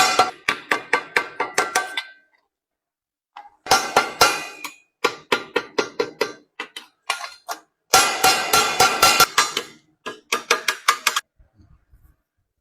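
Hammer striking copper sheet metal in quick runs of blows, about four or five a second, each blow with a short metallic ring, broken by brief pauses.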